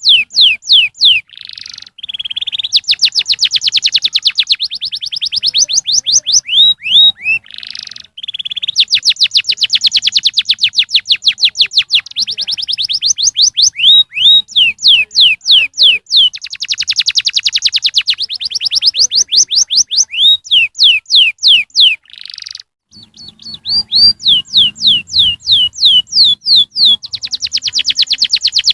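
Domestic canary singing. Its song runs as long rolls of rapidly repeated rising chirps, some spaced apart and some so fast they blur into a buzzing trill. A few short breaks each end on one longer swooping note.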